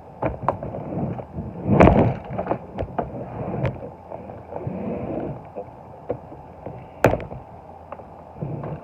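Handling noises: a run of light clicks and knocks of small hard objects being moved about, with a heavier thump about two seconds in and a sharp knock about seven seconds in.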